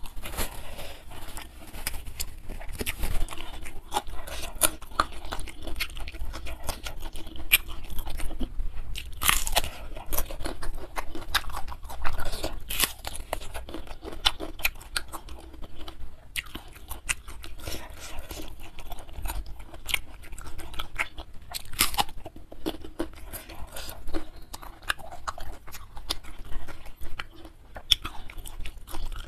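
Close-miked eating: irregular crisp crunches and chewing as bites are taken from a raw bitter gourd (pare) dipped in sambal.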